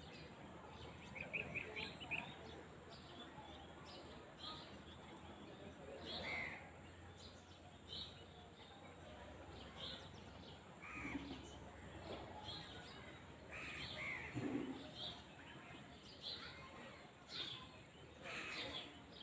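Countryside ambience: small birds chirping on and off over a faint, steady low background noise, with a few louder, lower calls about eleven and fourteen seconds in.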